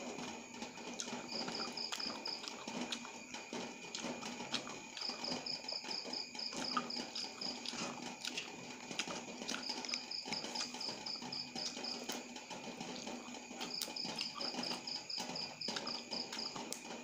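Close-up eating sounds: wet chewing and mouth clicks as noodles and fresh tamarind leaves are eaten by hand. A cricket chirps in the background in four bursts of rapid, evenly spaced pulses.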